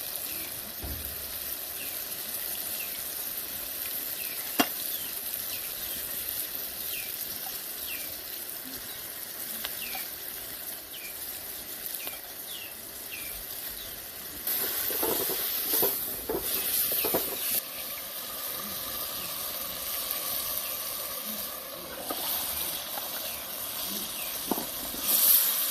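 Food frying in hot oil, a steady sizzle, with a louder stretch of stirring and scraping about halfway through. A bird chirps over and over in the background through the first half.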